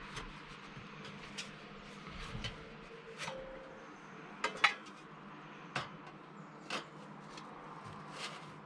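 Scattered light clicks and knocks of hard objects being handled, about a dozen over the stretch, with the sharpest knock about halfway through and a brief ring just before it.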